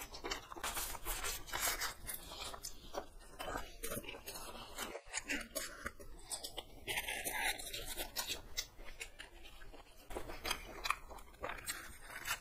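Close-up chewing and biting into egg rolls: a run of quick wet mouth clicks and crunches, with the rustle of the paper wrapper being handled.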